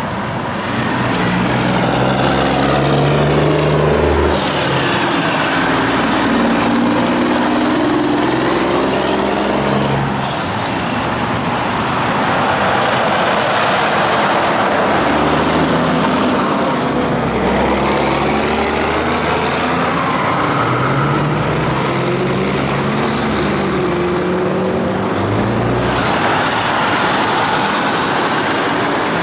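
Semi trucks passing one after another on a highway. Each engine's pitch drops as it goes by, over steady tyre and road noise.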